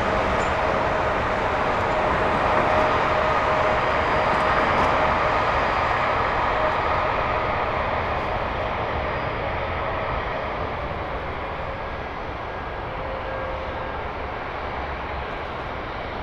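Jet airliner engines heard as a steady rushing noise with a faint whine, slowly fading as the aircraft moves away.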